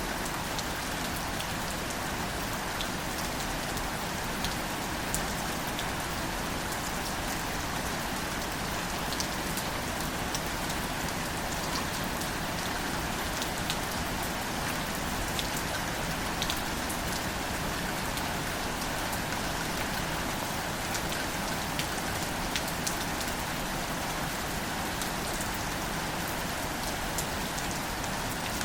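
Steady gentle rain falling on wildflowers: an even hiss with many separate drop taps scattered through it.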